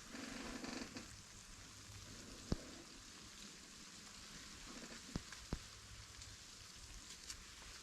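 Food sizzling in a pan over a campfire: a steady frying hiss with a few sharp pops.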